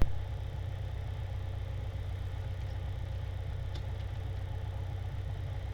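Piper Arrow's piston engine idling as the plane taxis clear of the runway: a steady low hum, with one click at the very start.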